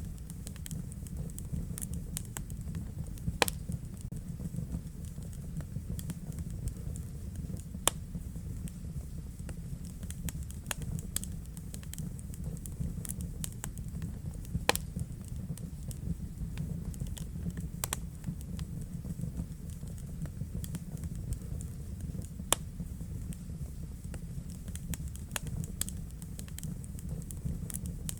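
Wood fire crackling in a fireplace: irregular sharp pops and snaps over a steady low rush of flame, with a few louder pops now and then.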